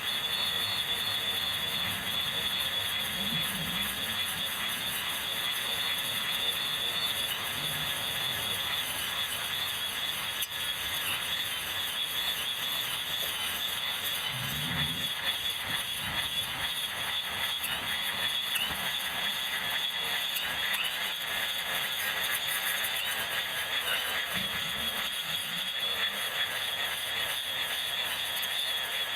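Electric grass trimmer running steadily while cutting grass, a continuous high-pitched whine. The footage is sped up eightfold.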